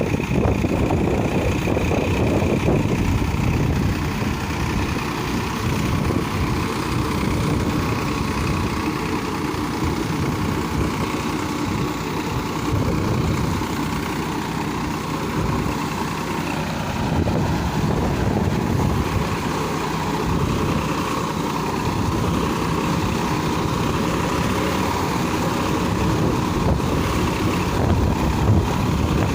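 Farmtrac 45 EPI tractor's diesel engine running steadily under load while pulling a rotavator.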